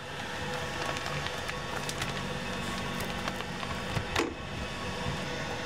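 Chopped onion, citrus and ginger sizzling and crackling in a stainless steel pot over a steady hum, with a knock about four seconds in as a block of butter drops into the pot.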